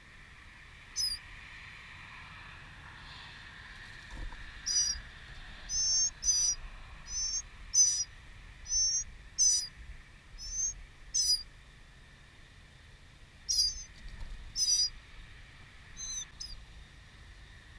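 A songbird giving short, high, warbling call notes, about fourteen of them in an irregular series with gaps between, the busiest stretch in the middle and a few more near the end.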